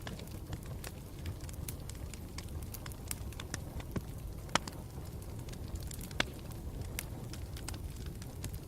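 Campfire burning with a steady low rumble and frequent irregular crackles and pops of the burning wood, two sharper pops standing out about halfway through and a little after.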